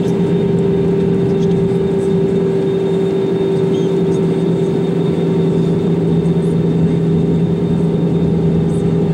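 Steady drone of an Airbus A320-200 heard inside the passenger cabin: engine and airflow noise with two held, unchanging hum tones.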